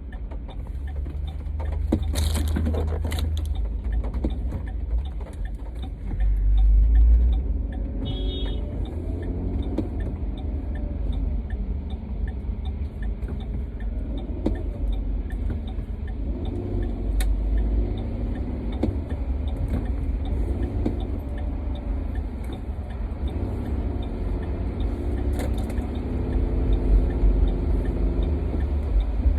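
Car interior while driving in heavy rain: a steady low rumble of engine and tyres on the wet road, with the engine note rising and falling as the car speeds up and slows.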